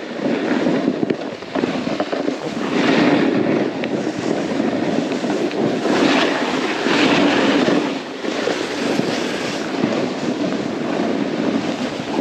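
Snowboard sliding and carving over snow: a continuous rough scraping rush that swells and eases with the turns.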